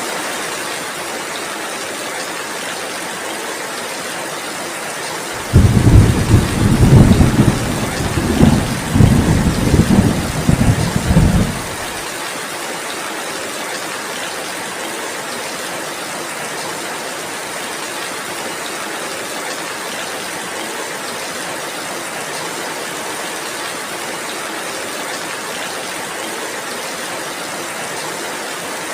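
Heavy rain falling steadily, with a roll of thunder that starts suddenly about five seconds in. The thunder rumbles in several surges for about six seconds, then cuts off.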